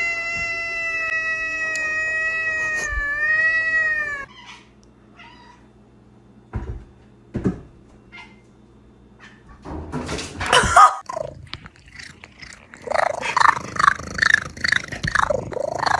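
A cat's long, drawn-out yowl held steady for about four seconds, wavering and dropping in pitch just before it cuts off. Then near quiet with a few soft knocks, a loud rough burst about ten seconds in, and a quick run of short cat cries near the end.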